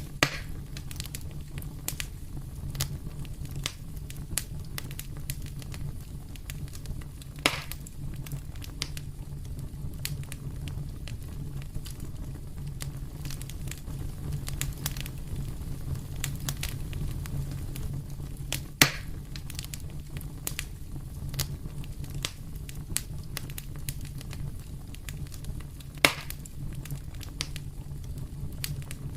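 Fire in a fireplace crackling steadily over a low rumble, with many small ticks and four louder sharp pops spread through.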